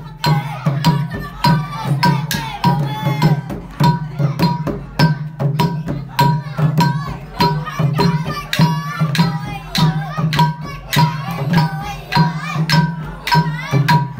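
Khmer chhay-dam dance music: drums and clashing percussion keep a fast, steady beat, with a wavering high melody line over it.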